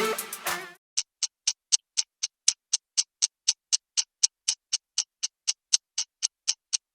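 Intro music that stops within the first second, then a clock ticking steadily and quickly, about four ticks a second, as for a countdown timer.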